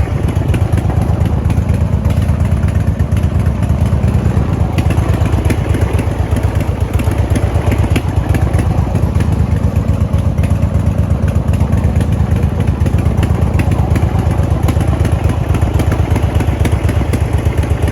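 2009 Harley-Davidson Road Glide's Twin Cam 96 V-twin running steadily at idle through aftermarket Vance & Hines mufflers, with an even low, loping exhaust pulse.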